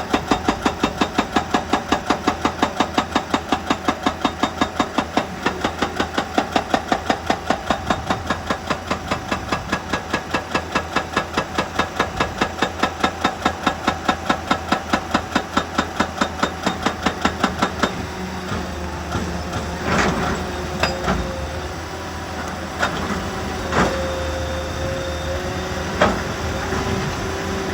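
Hydraulic rock breaker on an excavator hammering with fast, even blows, about five a second, which stop about eighteen seconds in. The machine keeps running after that, with a few sharp knocks.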